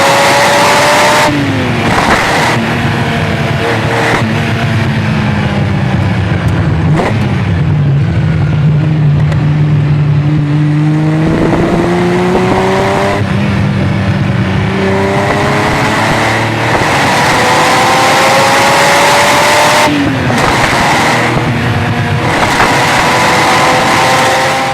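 Ferrari Testarossa's flat-12 engine through a Larini exhaust, heard from on board: it accelerates with the pitch climbing, drops briefly at each gear change, slows to a low steady pitch in the middle, then pulls up through the gears again.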